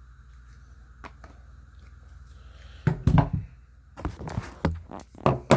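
Handling noise of a cordless power tool and its hard plastic parts: quiet at first, then a heavy thud about three seconds in, followed by several sharp clicks and knocks.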